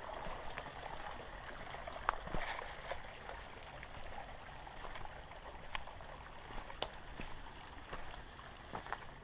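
Creek water running with a steady rush, with scattered sharp clicks and crunches over it.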